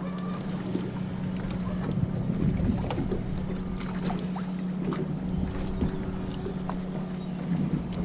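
A small fishing boat's motor running with a steady hum, with scattered light clicks and knocks over it.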